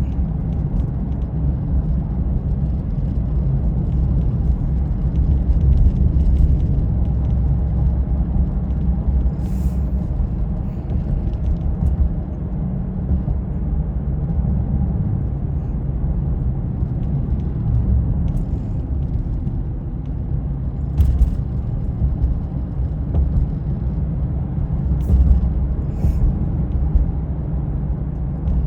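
Steady low rumble of a car driving, with a few brief clicks and knocks.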